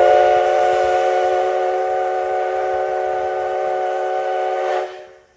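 Steam whistle of the JNR Class C56 steam locomotive C56 160, blown as its departure signal: a long, loud chord of several notes held steady, then cut off sharply about five seconds in.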